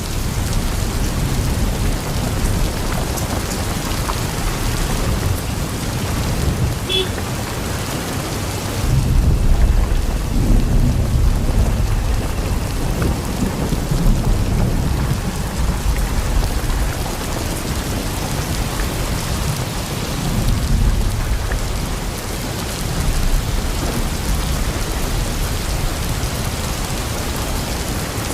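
Heavy rain falling steadily, with deep rumbles of thunder that swell and fade several times, loudest about nine to twelve seconds in.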